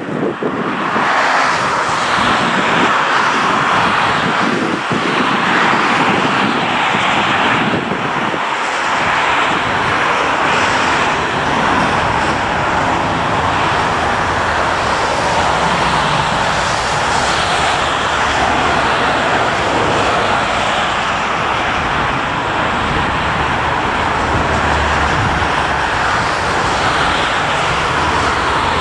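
Jet airliner's engines heard from outside, a loud, steady rushing noise, with a deeper rumble building in the last few seconds.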